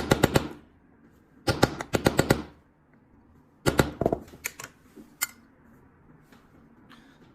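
Small hammer tapping rapidly on a silver-plated metal lighter case, three quick runs of sharp metallic taps about a second each, then a couple of single taps. The case is being knocked to take up slight front-to-back play in the lid.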